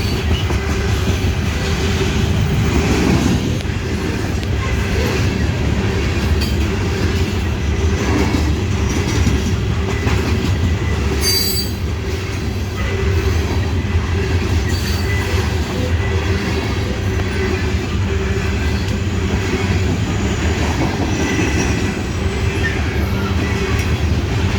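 Loaded coal hopper cars of a long freight train rolling past at slow speed: a steady rumble of steel wheels on the rails, with a brief high wheel squeal about halfway through.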